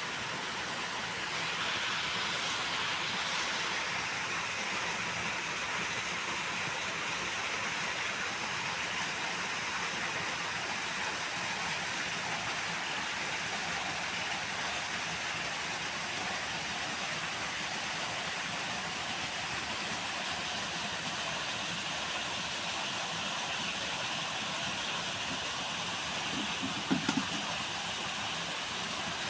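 Steady rushing of flowing water, even and unbroken. A few brief low knocks come near the end.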